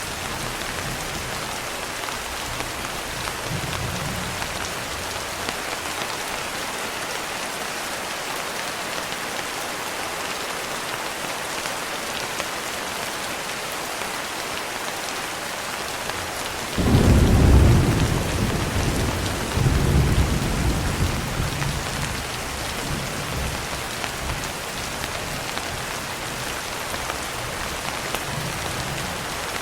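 Steady rain pattering. Past the middle a roll of thunder rumbles in suddenly, swells a second time and then fades out over a few seconds.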